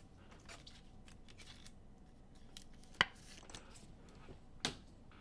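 Trading cards being handled and flipped through: light rustling and soft ticks, with two sharper clicks about three seconds in and again near the end.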